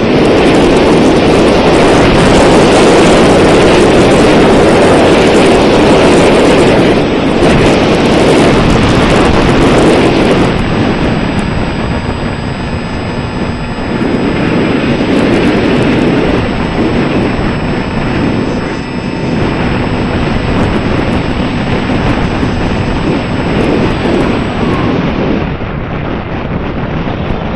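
Strong wind buffeting the microphone: a loud rushing that rises and eases in gusts.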